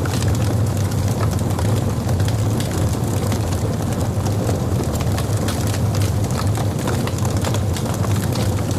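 Burning logs in a fireplace crackling, with frequent sharp pops and snaps over a steady low rumble of the flames.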